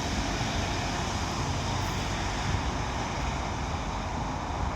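Pair of Class 150 diesel multiple units pulling out of the station, a steady low engine and wheel rumble.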